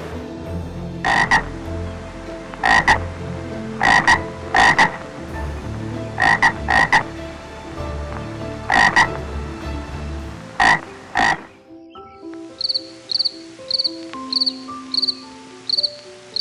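Frog croaking in short calls, often in pairs, every second or two; after a brief pause a cricket starts chirping in even pulses about twice a second.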